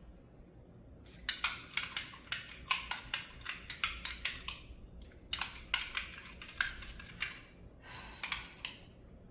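Spoon clicking and scraping against a bowl while stirring a soy-sauce, honey and ketchup glaze: quick rapid strokes in three runs with short pauses between them.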